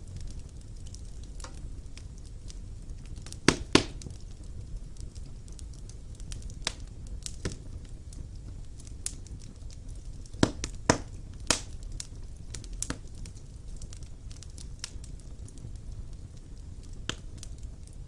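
Wood fire burning in a stone fireplace: a steady low rumble of flames with irregular sharp crackles and pops, the loudest a quick pair about three and a half seconds in and a cluster of three around ten to eleven seconds in.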